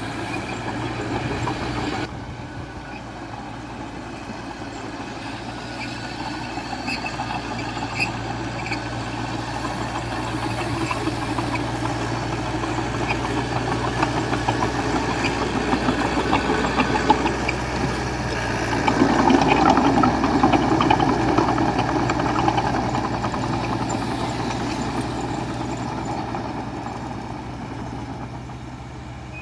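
Diesel engine of heavy earthmoving machinery running steadily under work, with a louder, rougher stretch about two-thirds of the way through.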